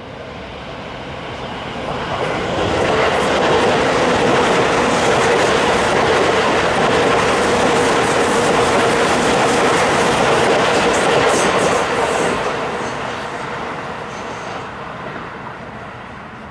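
Keio Line electric commuter train passing close by, its wheels clattering on the rails over a steady hum. The sound builds over the first few seconds, stays loud through the middle and fades away near the end.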